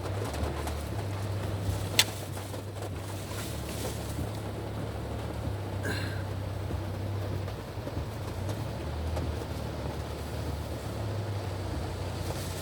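Heavy rain falling steadily, with a low rumble underneath and a sharp click about two seconds in.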